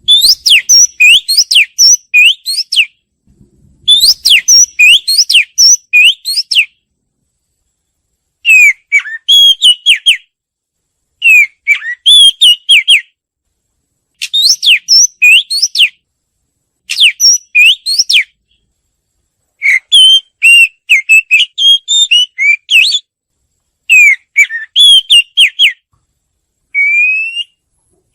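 Oriental magpie-robin singing: about nine phrases of clear whistled notes that slide up and down, each phrase lasting one to three seconds with short pauses between.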